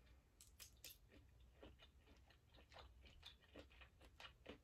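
Faint, close-miked chewing of shrimp scampi: soft, irregular wet mouth clicks and smacks.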